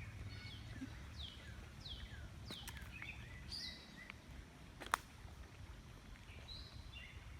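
Birds calling, a string of short chirps that each sweep quickly downward, over a steady low rumble; a single sharp click about five seconds in.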